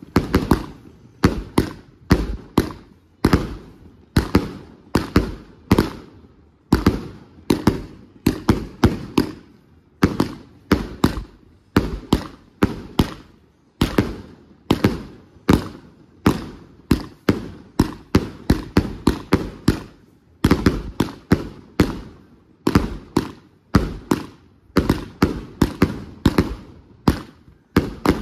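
Consumer aerial fireworks going off in a rapid, irregular string of loud bangs, a few a second, with brief gaps between clusters.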